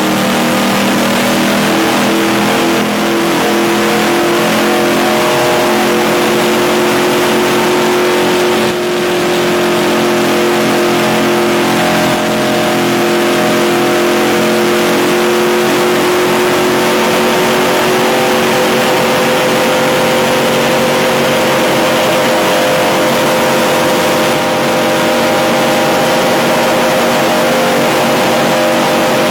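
NASCAR race truck's V8 engine running hard at high revs, heard from on board, its pitch drifting slowly up and down with a few brief dips in level.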